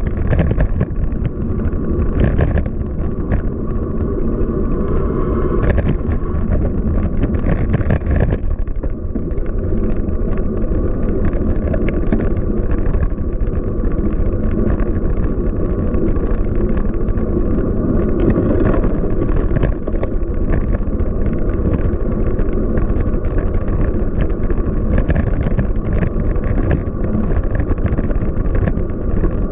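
Wind buffeting the microphone and low road rumble while riding a bicycle through city streets, with a few light clicks.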